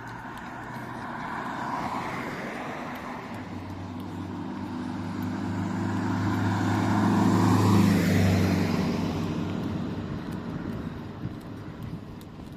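A motor vehicle passing close by: its engine drone and tyre noise build to a peak about eight seconds in and then fade away, with a smaller swell of tyre noise from a lighter vehicle passing around two seconds in.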